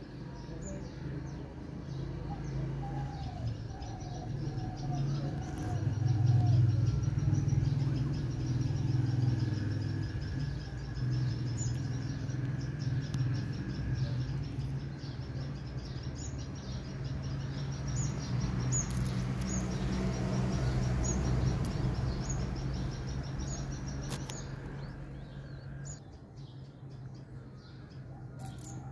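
Small birds chirping repeatedly, over a low steady rumble that is loudest about six to ten seconds in.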